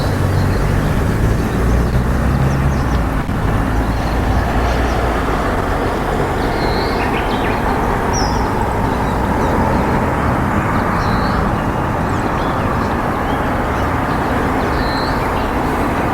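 Steady, loud rumbling background noise, with a few short, high bird chirps dotted through it, about five in all.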